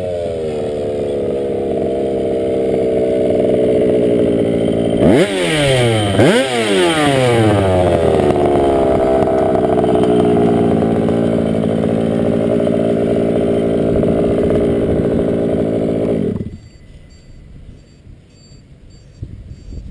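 Engine of a 1:5 scale RC monster truck running hard, its pitch sliding down, then two quick sharp revs about five and six and a half seconds in, then held at a fairly steady high speed. It cuts off suddenly about three seconds before the end.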